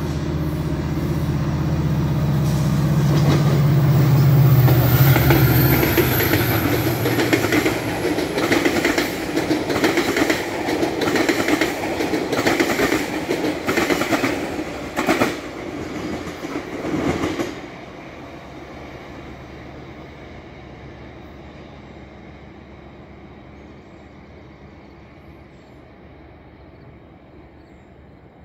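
GO Transit diesel locomotive and bilevel coaches passing close by. The locomotive's engine drones loudly for the first several seconds, then the wheels clack in a steady rhythm over the rail joints. About 17 seconds in the sound drops off sharply, leaving a faint low rumble.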